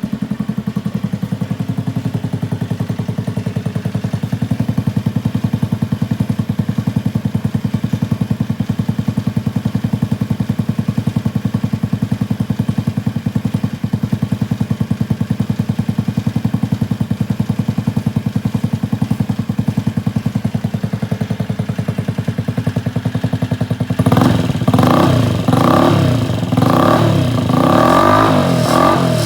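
Honda Zoomer AF58 scooter's 50cc single-cylinder four-stroke engine idling steadily through an aftermarket exhaust. Near the end comes a quick run of about six throttle blips, each revving up and dropping back.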